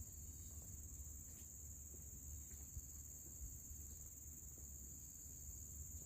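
Insects droning steadily at a high pitch, a continuous shrill chorus, with a faint low rumble underneath.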